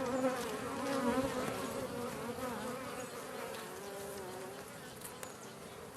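Honey bees buzzing in numbers around an open hive, their wing tones wavering in pitch and slowly fading.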